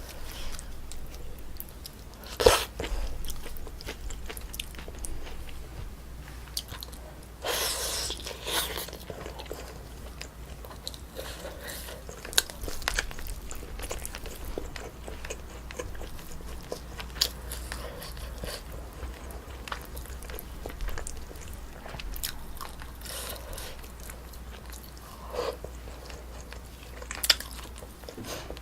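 Close-up chewing and biting of a meal of braised spicy chicken with rice, with many small wet mouth clicks and some crunchy bites. A sharp louder click comes about two and a half seconds in, and a longer, noisier stretch of eating about seven seconds in.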